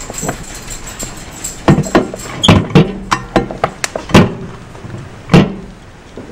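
A series of sharp knocks and clunks from handling things in a kitchen, about eight in all over a few seconds, the loudest around two, four and five seconds in.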